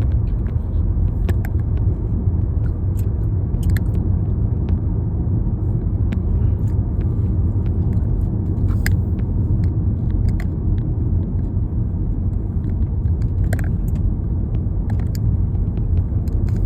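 Steady low road rumble inside a moving car, with a few faint clicks here and there.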